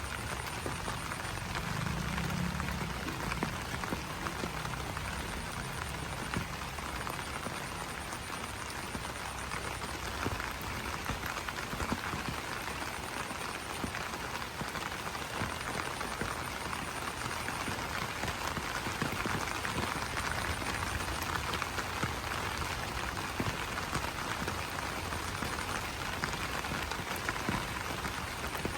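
Steady rain falling on broad banana leaves: a dense, even patter of many small drops, with a brief low call about two seconds in.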